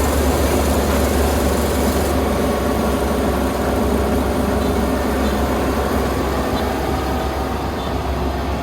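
Kubota ER470 combine harvester's diesel engine running steadily with a loud, constant drone and machinery noise; a high hiss eases off about two seconds in.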